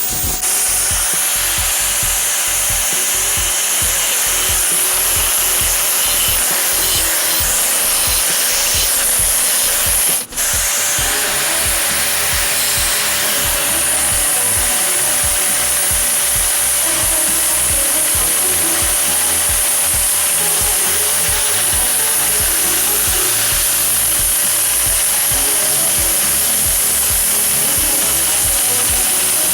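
Power tool cutting through a bamboo stem along a marked taper, a steady loud cutting noise that drops out for an instant about ten seconds in.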